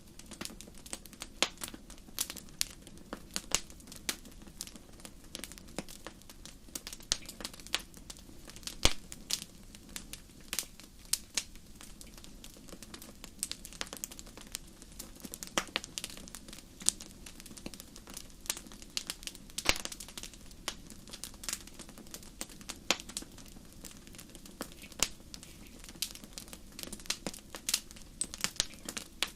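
Fire burning in a fireplace, crackling with irregular sharp pops, several a second, a few louder than the rest, over a low steady hiss.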